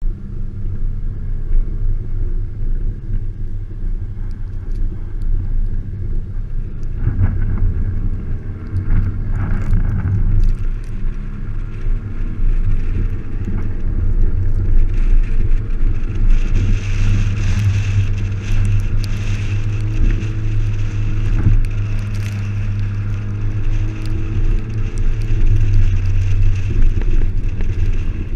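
Volkswagen Mk5 GTI's turbocharged four-cylinder engine revving up and down as the car is driven sliding on snow, with wind noise on a camera mounted outside the car. The engine note rises about seven seconds in and again from about sixteen seconds in.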